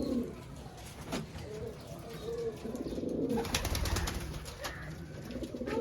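Fancy pigeons cooing, low rolling coos repeated several times, with a few sharp clicks and taps mixed in, most of them bunched around the middle.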